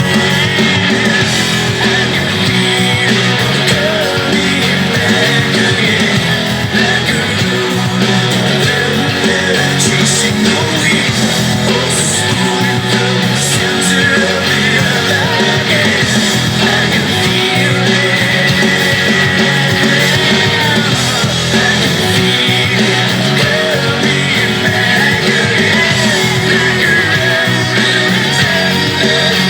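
Rock music with singing and electric guitar, the guitar played through a Zoom G5n multi-effects pedal.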